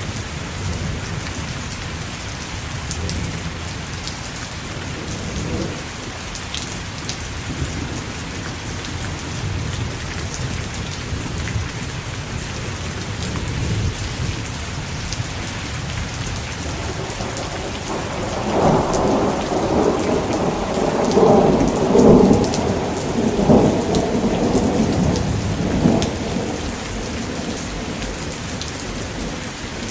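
Steady rain falling, with a long roll of thunder rumbling up about two-thirds of the way through and dying away after several seconds.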